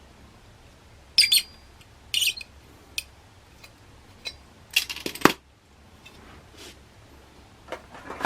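Small metal parts clinking and clattering as they are handled, in about five separate groups of sharp clinks, the loudest a little after halfway.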